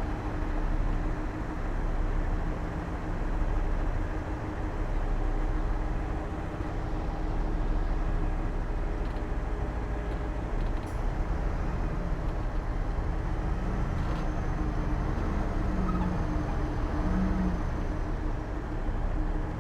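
Heavy diesel earthmoving machinery running steadily with a low engine rumble.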